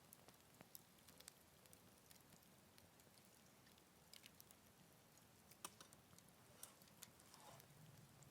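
Wood fire burning in a Picogrill 398 fire pit, crackling faintly with scattered small pops and ticks, a few slightly louder ones past the middle.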